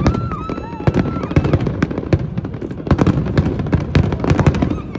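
Fireworks going off in quick succession: many sharp bangs and crackles, one after another.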